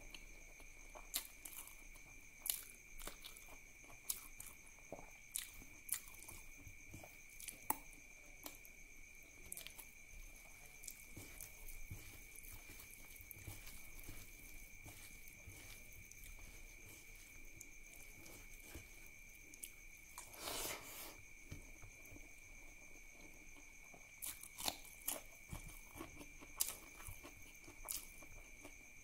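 Close-miked mouth sounds of a person eating curry and rice by hand: quiet chewing with many sharp wet clicks and smacks, and one longer noisy smack about three-quarters of the way through. A faint steady high-pitched whine runs underneath.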